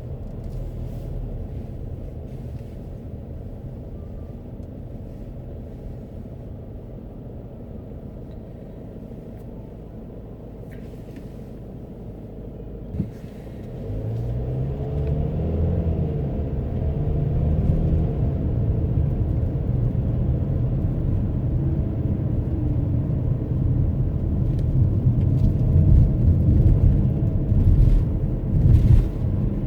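Car engine and road rumble heard from inside the cabin while driving. A single sharp click comes just before halfway, then the rumble grows louder and the engine note climbs and falls as the car speeds up.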